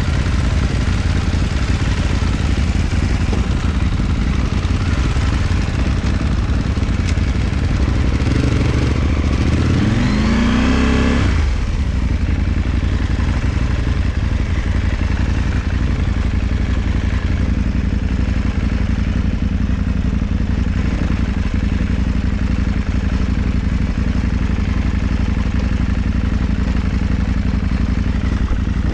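KTM 790 Adventure's parallel-twin engine running as the motorcycle is ridden, with one rising rev about nine seconds in that drops away sharply about two seconds later.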